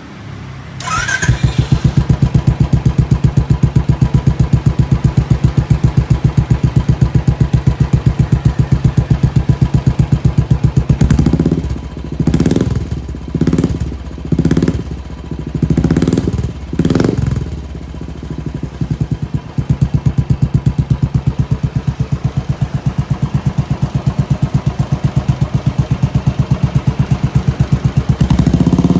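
Royal Enfield single-cylinder engine running through an aftermarket Pazooma stainless-steel exhaust. It idles with a steady, even pulsing beat, is revved in about five quick blips around the middle, then settles back to idle, with another rev near the end.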